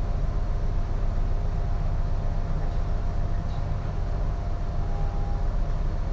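Steady low rumble and buffeting on board a container ship in strong wind, with a faint steady machinery hum and no distinct events.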